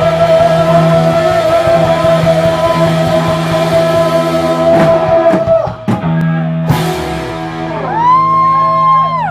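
Live rock band with loud distorted electric guitar holding one long note. A few sharp drum hits land about five to seven seconds in as the song closes, then wavering high tones rise and fall near the end.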